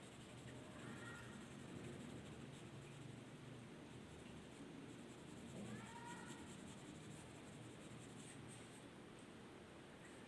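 Faint scratching of a drawing tool on paper. Two brief high cries come through, one about a second in and a clearer one around six seconds.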